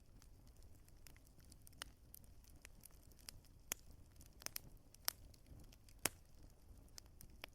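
Wood fire crackling: irregular sharp pops of burning logs over a faint low rumble.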